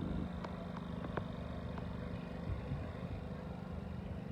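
A steady low engine-like hum with a few light clicks in the first second or so.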